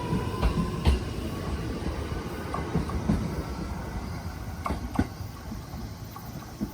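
JR East EV-E301 battery-electric train running on the rails: its motor whine dies away about a second in, under a steady rumble. The wheels clack over rail joints a few times as the sound slowly grows fainter.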